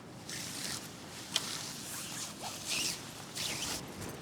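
A zipper pulled in several short strokes, with a sharp click about a third of the way through.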